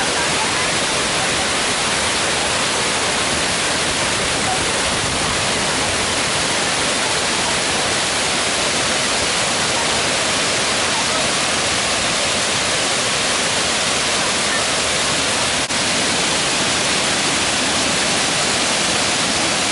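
Steady, loud rush of water tumbling over the cascades of Kuang Si waterfall, an even unbroken roar with a single short click about three-quarters of the way through.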